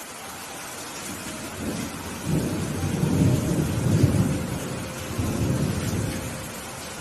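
Steady rain with a roll of thunder that builds about two seconds in, peaks around the middle and rumbles away before the end.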